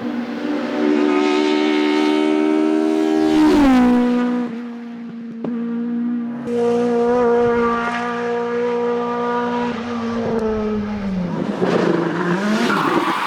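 Race car engine at high revs on a hillclimb run. The note drops sharply about three and a half seconds in, then holds steady and rises again. It falls back around eleven seconds and climbs once more, rougher, near the end.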